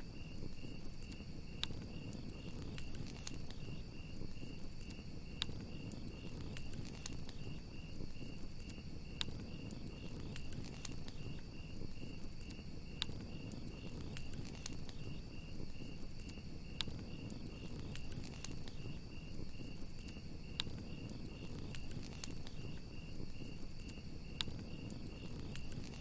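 Crickets chirping in a steady, rapid, even pulse over a crackling wood fire. The fire gives a low, even rush with frequent small crackles and a sharper pop about every four seconds.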